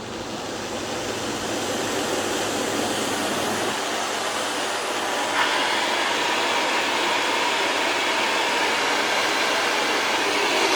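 Philips Performer Pro canister vacuum cleaner motor spinning up and running at full power with a steady rush of air, as in an airflow test. Its sound turns brighter and hissier about five seconds in.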